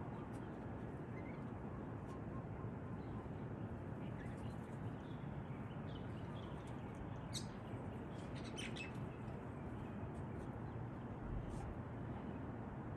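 Birds chirping in short high notes, scattered, with a cluster of them about halfway through, over a steady rushing background noise.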